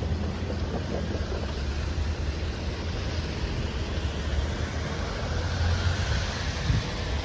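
Steady rumbling noise with a low hum underneath.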